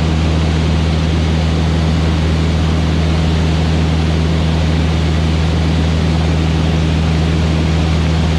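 Van's RV-8 light aircraft's piston engine and propeller droning steadily in flight: an even low hum under a steady hiss, with no change in pitch.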